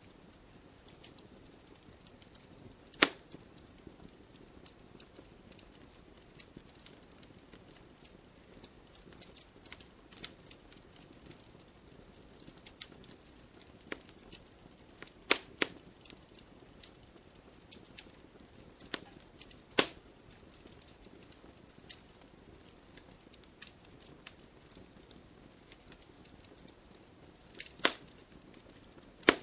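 Campfire crackling: a steady low hiss of burning wood with frequent small snaps and a handful of sharp, louder pops.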